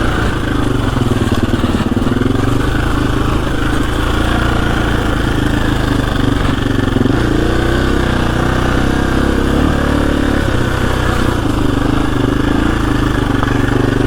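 KTM 350 EXC-F single-cylinder four-stroke dirt bike engine running at low, fairly steady revs while the bike rolls along a trail, the pitch wavering only slightly.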